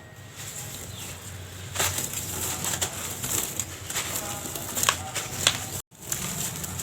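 Dried sand-cement or yellow dirt shapes being crushed and crumbled by hand, a dense run of gritty crunches and crackles that starts about two seconds in and breaks off briefly near the end.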